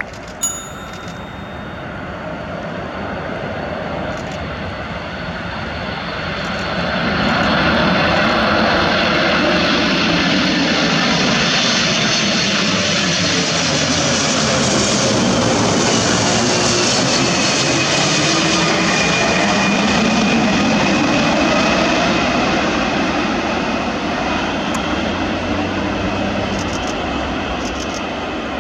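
Boeing 747-400 freighter's four jet engines passing by on landing. The roar swells over the first several seconds, holds loud, then fades, with its pitch sliding down as the jet goes past.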